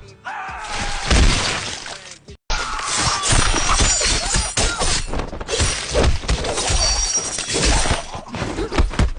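A loud, continuous clatter of crashing and shattering with many overlapping impacts, broken by a brief dead stop about two and a half seconds in before it carries on.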